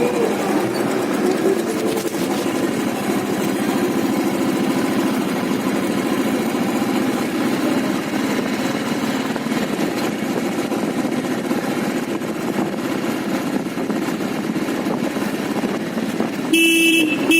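Motorcycle riding through traffic: steady engine and road noise, with a vehicle horn starting to honk near the end.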